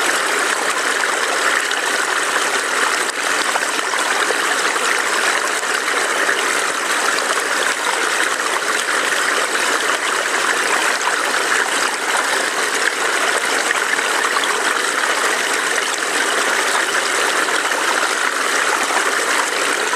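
Small stream burbling and splashing over rocks, a steady, unbroken rush of water.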